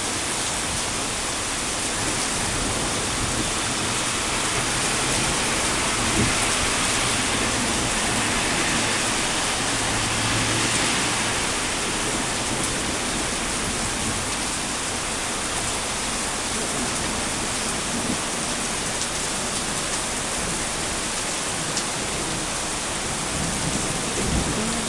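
Heavy rain pouring steadily: a dense, even hiss of a downpour.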